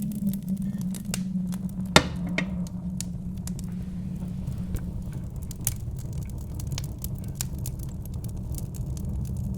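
Wood fire crackling with scattered sharp pops, one louder pop about two seconds in, over a steady low rumble of wind.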